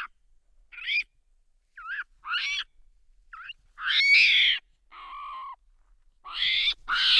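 Marmoset giving a string of short, high-pitched calls with quick pitch bends, separated by brief pauses. A longer, louder call comes about four seconds in.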